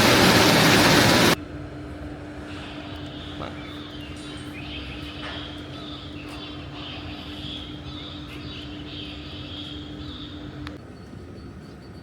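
Food-factory machinery: a loud rushing noise cuts off abruptly a little over a second in. Then comes a steady machine hum with a higher whirring sound over it, which fades near the end, and a few faint clicks.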